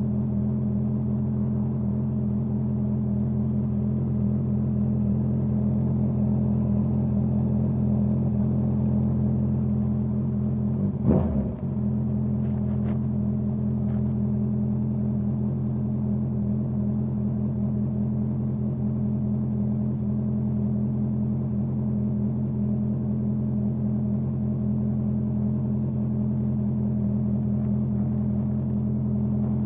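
Honda CBR650R inline-four engine running through a Dominator GP full-system exhaust, held at steady revs with no change in pitch. A single short thump comes about eleven seconds in, followed by a few faint clicks.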